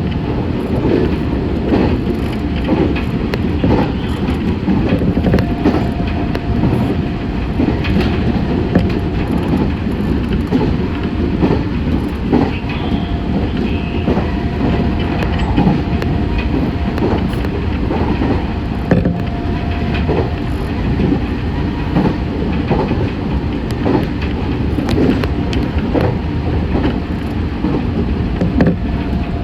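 Meitetsu 6500 series electric train running along the line, heard from on board: a steady rumble with frequent clicks from the wheels over the rails, and a faint steady tone.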